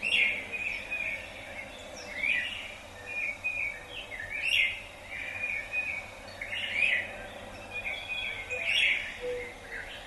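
A songbird singing, repeating a short phrase about every two seconds over a steady background hiss of outdoor noise.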